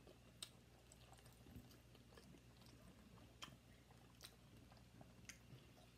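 Faint chewing: a few soft, scattered mouth clicks and smacks over near-silent room tone.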